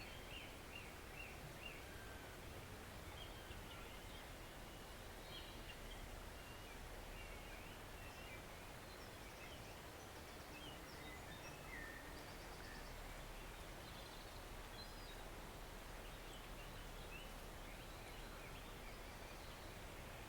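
A woodland stream running with a steady, soft rush, while small songbirds chirp and twitter on and off, including a quick run of repeated chirps about a second in.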